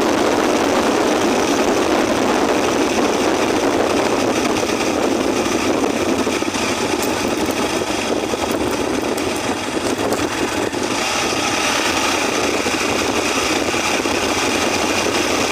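Motorcycle on the road, engine running steadily under a constant rush of wind noise.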